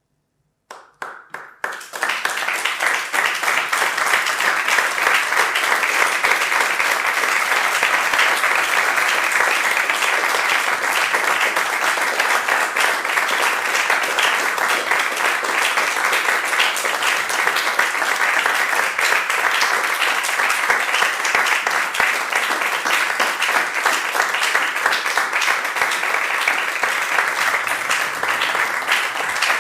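Live audience applauding: a few scattered claps about a second in, then from about two seconds on a dense, steady applause.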